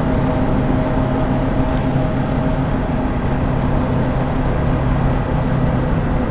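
Motorcycle engine running at a steady cruising pace while riding, with wind rushing over the microphone.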